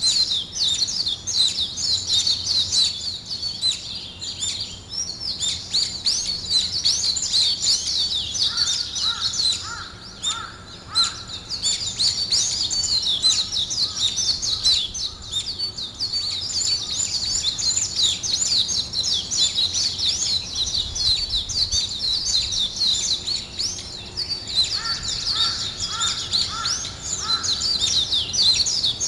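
Dense chorus of small songbirds chirping and twittering in quick, high notes without pause. Twice, about a third of the way in and again near the end, a lower call of several evenly repeated notes joins in.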